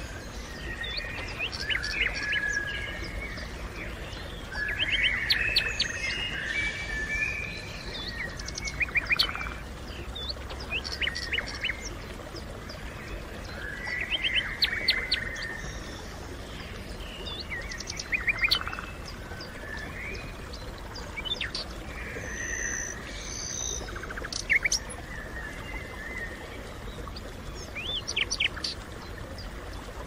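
Small birds chirping and twittering, many short high calls and quick trills coming in bursts every few seconds, with a faint low rumble underneath.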